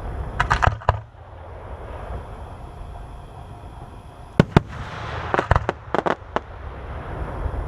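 Aerial fireworks going off: a quick cluster of sharp bangs in the first second, then after a lull two loud reports about four and a half seconds in, followed by a run of crackling pops, over the rumble and hiss of the display.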